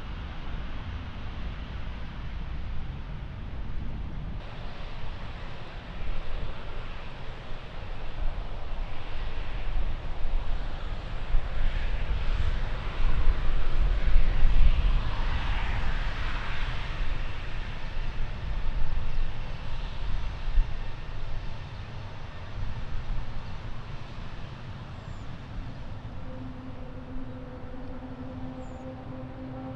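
Jet airliner passing, its engine noise swelling to a peak about halfway through and then fading away. Wind rumbles on the microphone, and a faint steady hum comes in near the end.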